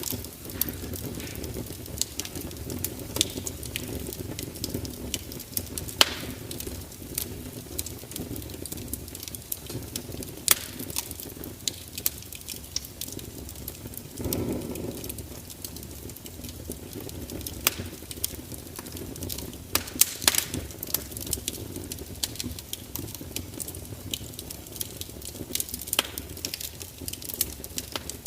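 Fire crackling steadily: irregular sharp pops and snaps over a low, even rumble of flame, with a brief louder low swell about halfway through.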